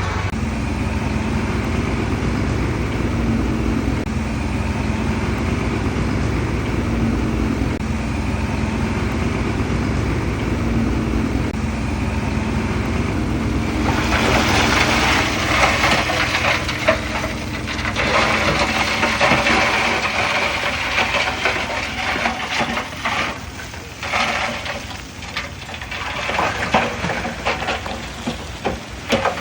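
Komatsu D31P crawler bulldozer's diesel engine running steadily. About halfway through, a louder metallic clattering and grinding of steel tracks and pushed earth sets in, with many sharp clanks, rising and falling.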